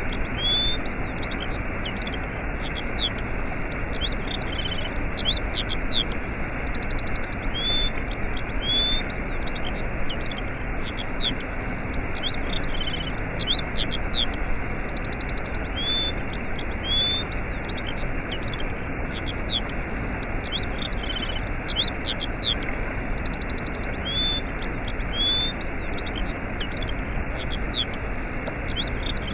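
Steady rush of a waterfall, with small birds chirping and trilling over it. The birdsong follows a pattern that repeats about every eight seconds, like a looped recording.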